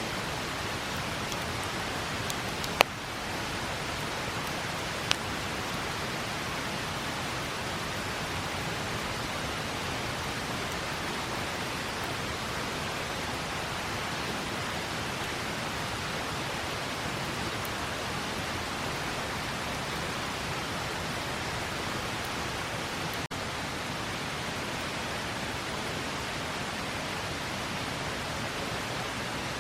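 Steady rushing of a river, with two sharp pops from the campfire about three and five seconds in.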